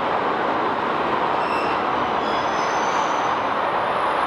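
Train Suite Shiki-shima's cars rolling past close by, a steady rush of wheel-on-rail noise. From about a second and a half in, faint thin high-pitched squeals come from the running gear.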